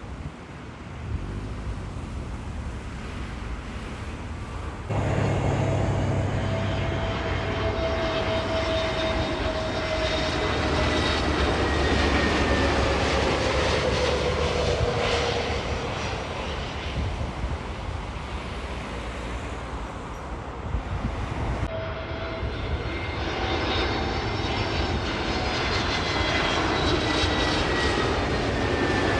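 Jet airliner engines passing close by, a loud rushing noise with whining tones that slide slowly down in pitch as the aircraft goes past. The sound jumps abruptly louder about five seconds in and changes abruptly again a little after twenty seconds.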